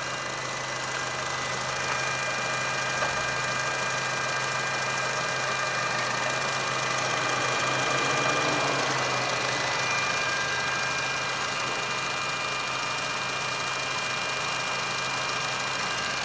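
Holden Cruze's 1.4-litre turbocharged Ecotec four-cylinder petrol engine idling steadily, heard from over the open engine bay.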